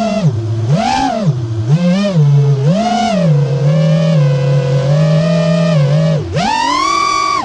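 FPV quadcopter's brushless motors whining, the pitch swinging up and down with the throttle about once a second, then holding steady for a few seconds. Near the end the pitch climbs sharply in a hard punch of throttle and then cuts off suddenly.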